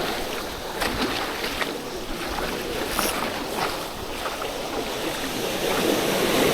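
Sea surf washing on the shore, with strong wind buffeting the microphone.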